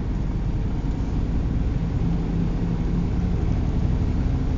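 Steady road and engine noise of a vehicle driving along, an even rumble with a low hum and no sudden events.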